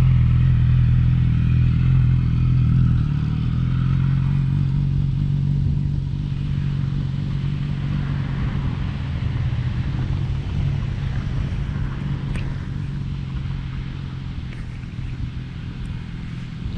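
Yamaha R6 inline-four sport-bike engine running steadily at low revs, the sound slowly fading as the bike rolls away.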